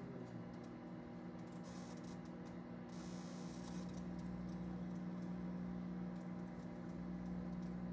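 Microwave oven running with a steady electrical hum, with faint crackling and ticking from a toaster burning inside it.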